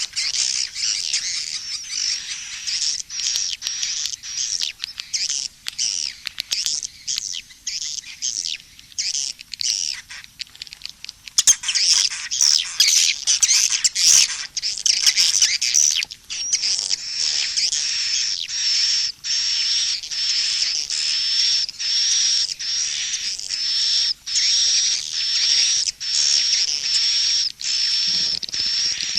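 Swiftlet calls from a lure-sound mix for swiftlet houses: rapid, high twittering chirps in a dense chatter. About eleven seconds in the chatter turns brighter and denser, then settles into an even run of repeated chirps.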